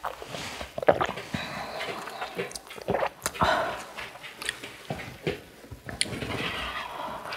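A person eating close to the microphone: chewing and biting, with many short, sharp clicks scattered throughout.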